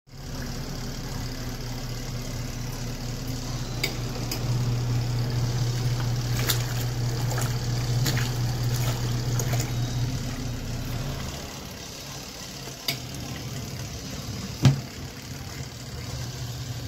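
Portable twin-tub washing machine running: a steady low motor hum with water churning in the tub, the hum dropping to a lower level about two-thirds of the way through. A few sharp clicks or knocks sound over it, the loudest near the end.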